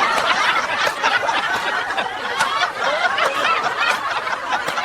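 Several people chuckling and snickering together, laughter going on throughout.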